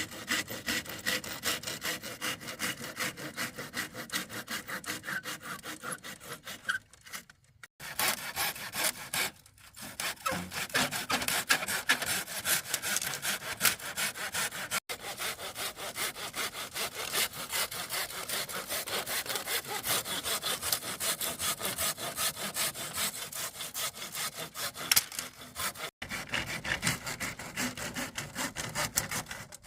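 Hand saw cutting wood with quick, steady back-and-forth strokes, stopping briefly twice.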